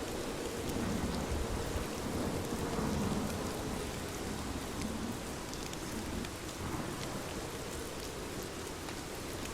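Steady rain falling, with scattered individual drops ticking. A low rumble swells about a second in and fades away by about four seconds.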